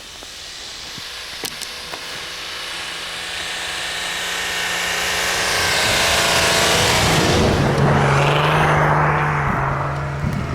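Off-road 4x4 engine running under load and growing steadily louder over several seconds, with a rushing hiss that peaks about seven to nine seconds in before easing off.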